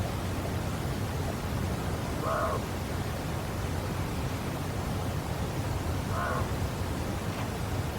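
Steady wind noise, with a bird giving a short call twice, about four seconds apart.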